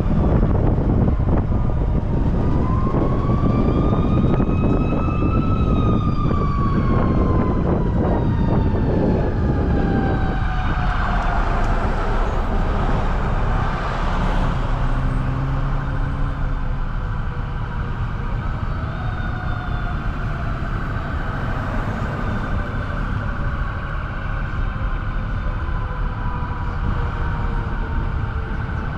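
Truck driving, with a steady rumble of engine and road noise. In the first ten seconds a whine slowly rises and then falls away.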